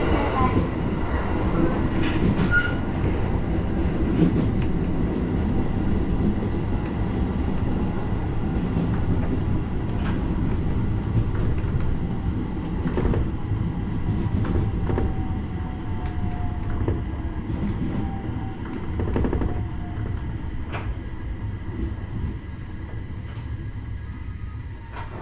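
701-series electric train heard from inside its driver's cab: wheels rumbling on the rails with scattered clicks over rail joints. It slows into a station, a faint falling whine sounds past the middle, and the running sound eases off near the end.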